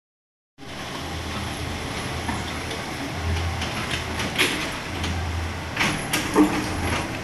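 Kobelco SK75 excavator running, cutting in suddenly after a moment of silence: a diesel engine note that swells several times, with scattered metallic clanks and knocks.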